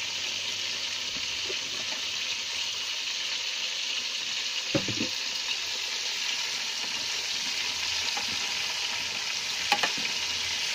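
Chicken pieces frying in hot oil in an aluminium pot, a steady sizzle. A knock about halfway through and two sharp clicks near the end come from a metal spoon hitting the pot.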